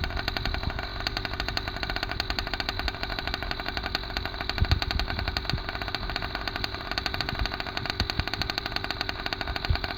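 A 66cc two-stroke motorized-bicycle engine running steadily through an unbaffled Thrust Racing expansion-chamber muffler, with rapid, even exhaust pulses at a constant speed. A few dull low thumps come through, about halfway in and again near the end.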